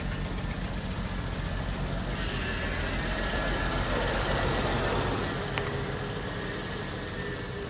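Pickup truck engine running at low speed as the truck creeps along. A rougher noise swells about two seconds in and eases off again about five seconds in, when the deep rumble drops away.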